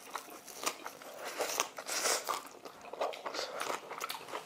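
A person chewing a mouthful of seasoned raw anchovy wrapped in roasted laver, close to the microphone: irregular crisp crunches and wet mouth sounds.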